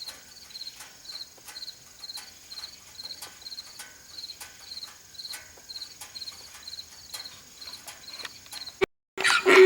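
Crickets chirping steadily in a regular, high-pitched rhythm of about three chirps a second. Near the end the sound cuts out briefly, and a louder, jumbled noise starts.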